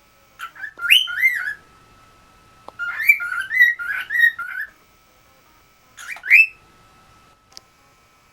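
Pet cockatiel whistling in three short bursts of rising, warbling notes: the dog-calling whistle it has been taught.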